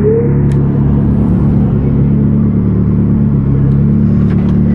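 Turbocharged Hyundai Genesis engine idling steadily with a low rumble.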